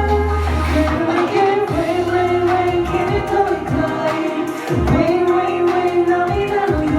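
K-pop dance track with a sung melody over a deep bass line, played loud for a live stage performance.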